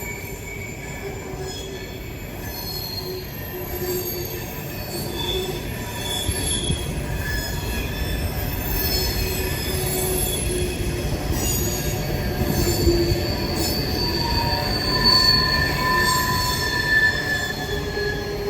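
Freight train cars rolling past with wheels squealing against the rails: several thin, wavering squeal tones over a steady low rumble, growing a little louder in the second half.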